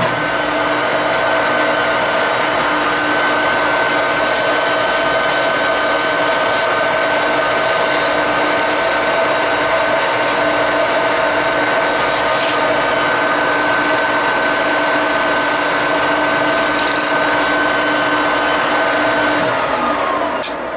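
Metal lathe started up and running at a steady speed while the spinning part is worked, with a high rasping hiss that comes and goes. Near the end the lathe is switched off and its hum falls in pitch as it spins down.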